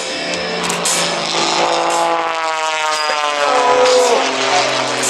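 Aerobatic propeller plane's piston engine and propeller passing low and fast. Its pitch drops steadily as it goes by, from about one and a half seconds in until about four seconds in.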